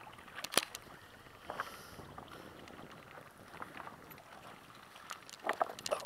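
Choppy lake water lapping and splashing, with wind on the microphone and a few irregular sharp clicks and slaps, the strongest about half a second in and a cluster near the end.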